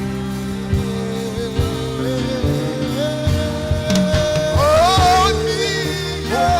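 Gospel worship song played by a band with held keyboard chords and drum beats, a singer's voice sliding upward about four and a half seconds in.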